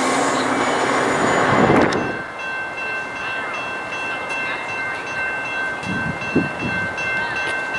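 A train passing close by, its loud rumble cutting off about two seconds in as it clears. Then a steady, high-pitched squeal holds on, quieter.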